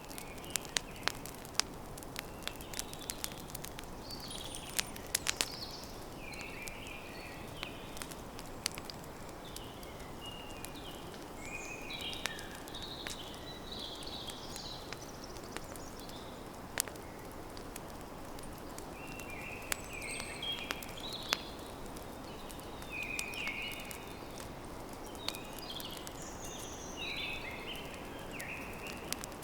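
Wood campfire crackling, with sharp pops that come thickest in the first few seconds, over a steady hiss. Small birds chirp in short, repeated phrases throughout.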